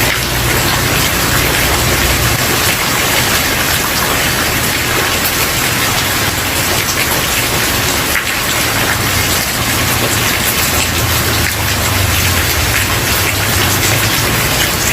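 Steady heavy rain falling on a wooden porch, a dense even hiss with many small drop ticks, over a low rumble that drops away about two seconds in and comes back near the middle.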